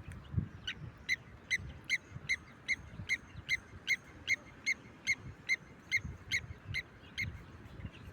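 Blacksmith lapwing calling a steady run of about seventeen short, clinking 'tink' notes, about two and a half a second, which stops shortly before the end. This rapid repeated tink is the species' alarm call.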